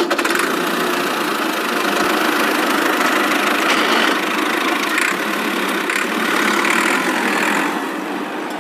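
A small DC motor in a homemade model tractor running with its gears, giving a steady mechanical whirr that eases off slightly near the end.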